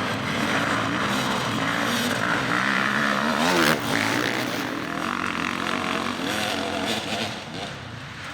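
Dirt bike engine revving under hard riding, its pitch rising and falling with throttle and gear changes, easing off near the end.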